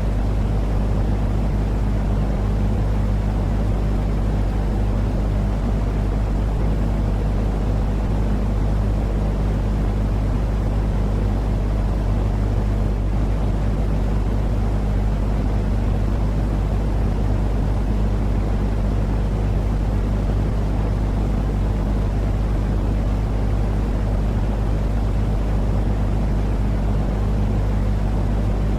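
Steady sleep 'white noise': a constant deep rushing noise with a low, unchanging hum under it, like the drone of a running engine.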